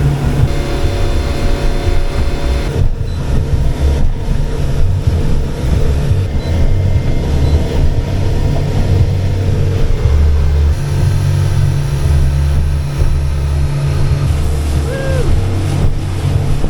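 C-Dory 22 cabin cruiser under way, its outboard motor running steadily with a loud, uneven low rumble underneath.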